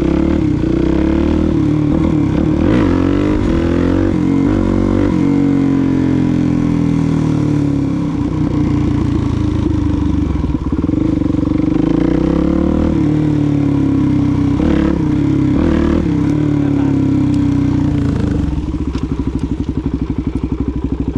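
Suzuki DRZ400SM's single-cylinder four-stroke engine under way, revving up and falling back several times, settling to a lower, steadier engine speed near the end.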